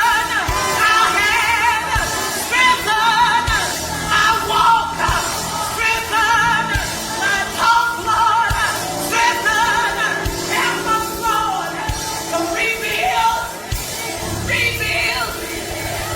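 Gospel singing with vibrato over instrumental accompaniment, with sustained bass notes underneath.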